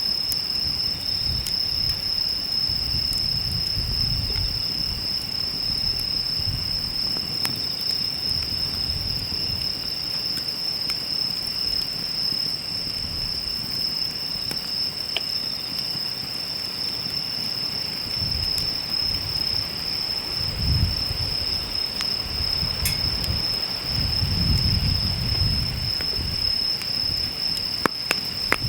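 Steady high-pitched chirring of insects over a wood campfire: a low rumble of the fire swelling and fading, with a few faint crackles and two sharper pops near the end.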